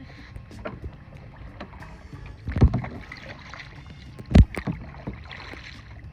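Kayak paddling: paddle strokes splashing in the water, with two loud, low thumps about two and a half and four and a half seconds in.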